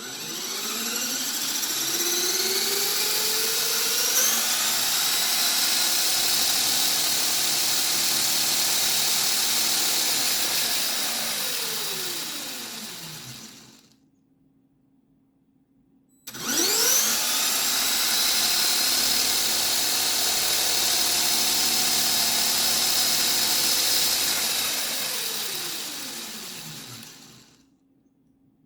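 Electric motors and gear train of a brick-built 1/5-scale RC motorcycle spinning up with a rising whine, running at full speed for about ten seconds, then winding down as the pitch falls. It happens twice, with a pause of a couple of seconds between the runs.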